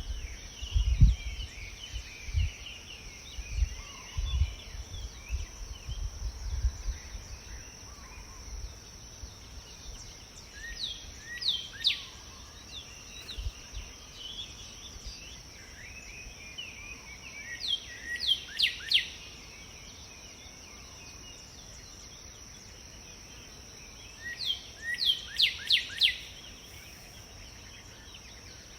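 Outdoor ambience: a steady high insect drone, with a bird calling three times in short runs of quick falling notes, about seven seconds apart. Low thumps in the first several seconds, the loudest about a second in.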